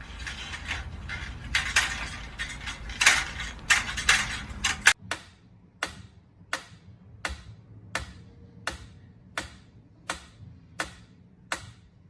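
Rustling with irregular clicks for about five seconds, then a sudden change to a steady ticking, about three ticks every two seconds.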